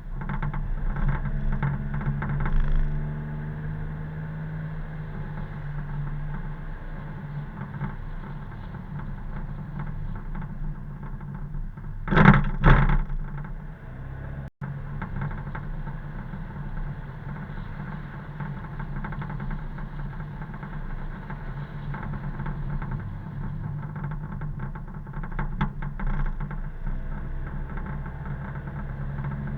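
Car engine and road noise, a steady hum, with two loud thumps close together about twelve seconds in.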